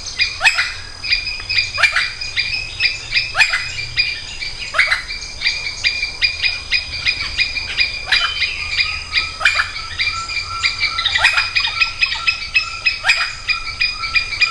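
Chorus of forest wildlife calls: sharp chirps that sweep downward in pitch, repeated about every second, over a steady high-pitched ringing. About nine seconds in, a lower steady whistling note joins.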